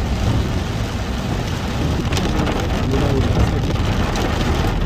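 Heavy rain drumming steadily on a moving car, over a constant low rumble of the engine and tyres on the wet road.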